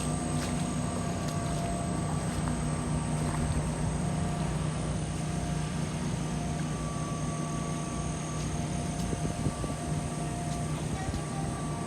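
A steady engine drone holding an even pitch throughout, with no rise or fall.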